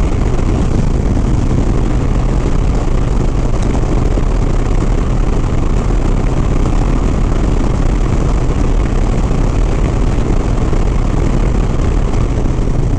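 Harley-Davidson Sport Glide's V-twin engine running steadily at highway cruising speed, heard under heavy wind noise on the helmet microphone.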